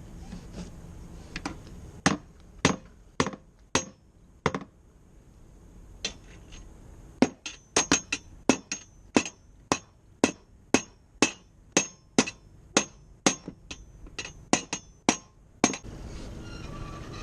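Hand hammer blows: a few scattered strikes, then after a pause a steady run of about two blows a second that stops shortly before the end.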